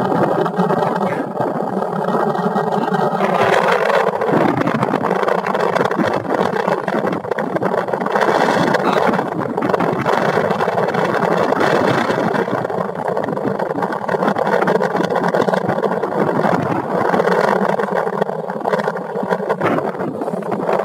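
A small boat's engine running steadily, loud and continuous, with a steady hum in the first few seconds.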